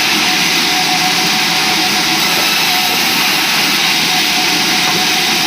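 Sawmill machinery running steadily: a constant loud mechanical drone with a faint steady whine.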